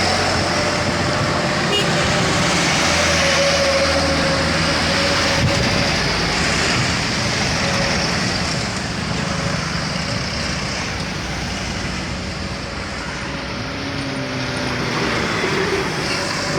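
Heavy truck engines working hard on the road, with steady tyre and traffic noise and a held engine note throughout.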